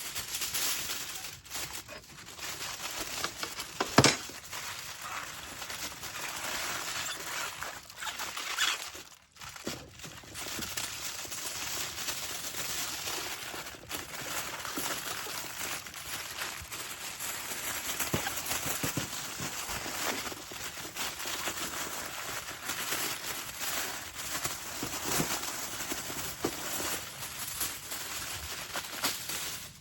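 Continuous rustling and crackling with many small sharp clicks, and one sharp knock about four seconds in.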